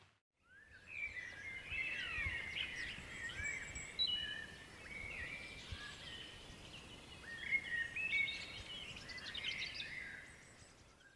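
Songbirds singing, many overlapping short chirps and whistled notes. The sound fades in just after the start and fades out near the end.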